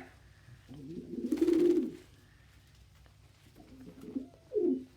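Domestic pigeons cooing: one long low coo about a second in, then a few shorter coos near the end.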